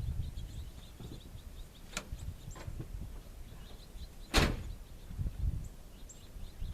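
A truck door shutting with one loud thump about four seconds in, after two lighter clicks, with no engine running yet. Low rumble on the microphone and faint bird chirps underneath.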